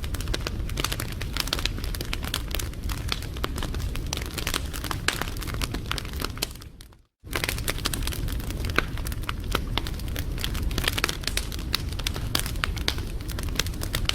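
Wood fire crackling, with dense sharp pops and snaps over a low rumble of the flames. About halfway through it fades out to silence for a moment, then comes back abruptly.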